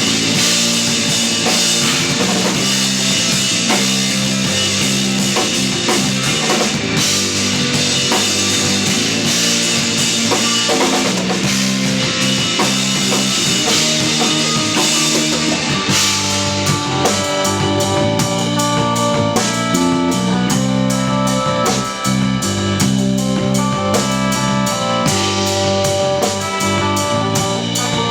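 Instrumental post-rock trio playing live: electric guitar, electric bass and drum kit. About halfway through, the drums move to a steady, evenly struck beat under clearer held guitar notes.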